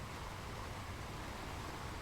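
Ocean surf on a beach: a steady wash of waves, even in level, with no single breaking crash standing out.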